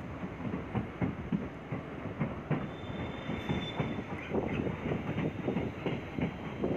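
Passenger train coach running on the rails as it gathers speed, its wheels clattering with rapid, irregular clicks over a steady rumble. A brief high wheel squeal comes in about two and a half seconds in and lasts about a second and a half.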